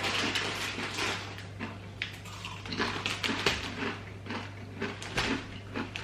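Hand-cooked crisps being crunched and chewed: an irregular run of short, sharp crackles over a low steady hum.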